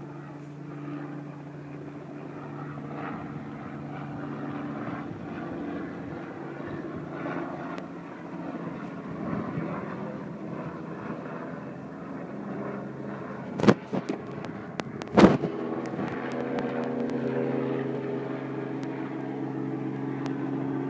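Helicopter engine and rotor running steadily, slowly growing louder as it comes in close. Two sharp knocks about a second and a half apart come around two-thirds of the way through.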